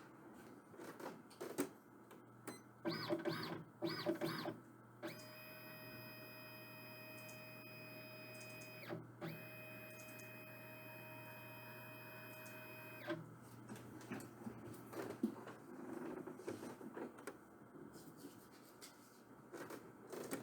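A printer running: four short whirring motor sweeps, then two steady whining passes of about four seconds each with a brief break between, and scattered clicks afterwards.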